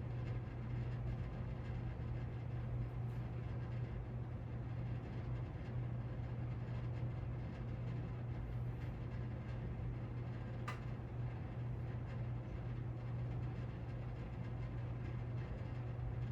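1994 Casablanca Lady Delta ceiling fan running on its low speed: a steady motor hum. A single click about ten seconds in.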